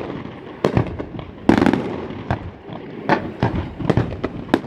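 Fireworks exploding: a string of irregular sharp bangs and crackles, the loudest about one and a half seconds in.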